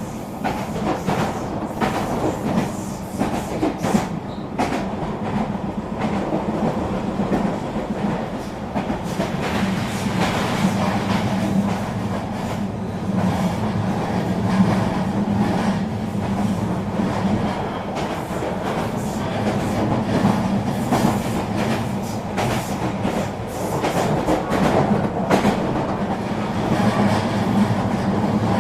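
Regional train running along the track: a steady rumble with a constant hum, and frequent clicks and rattles from the wheels passing over the rails.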